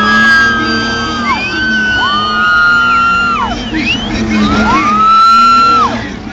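Drifting car's tyres squealing in three long screeches, each rising quickly to a steady high pitch, holding for a second or more and falling away, over the car's engine held at high revs.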